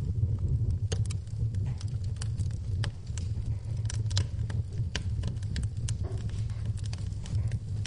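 Wood fire burning in a fireplace: a steady low rumble from the flames with irregular sharp crackles and pops from the burning logs, several a second.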